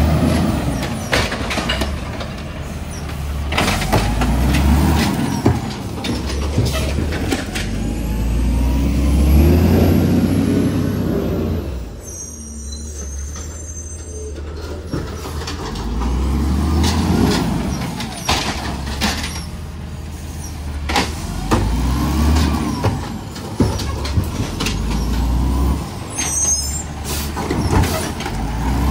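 Diesel garbage truck's engine revving up and easing off again and again, every few seconds, with knocks and clanks in between.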